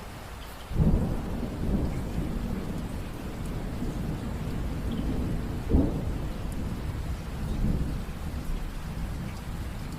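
Steady rain with thunder. A low rumble breaks in about a second in and rolls on, with a sharper clap a little past the middle.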